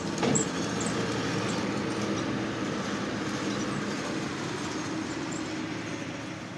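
Skid steer engine running steadily while the machine works dirt, with one sharp metallic clank right at the start.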